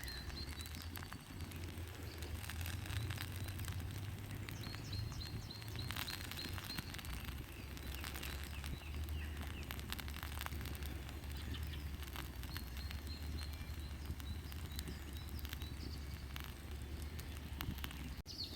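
Wood campfire crackling with scattered small pops, and birds chirping in the background over a low steady hum.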